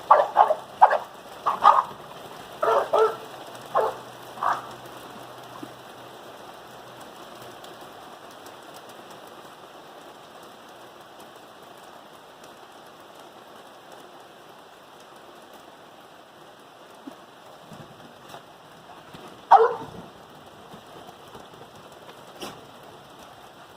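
Steady rain falling with an even hiss. An English bulldog lets out a series of short barks in the first few seconds, and one more loud bark about twenty seconds in.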